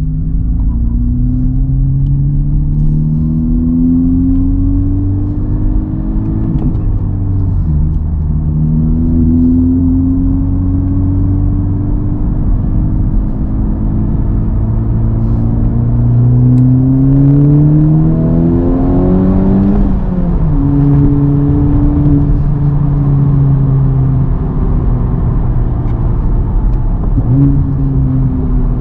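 Honda Civic Type R's turbocharged 2.0-litre four-cylinder engine running through an AWE Touring exhaust under steady acceleration, its pitch climbing through each gear and dropping at several upshifts.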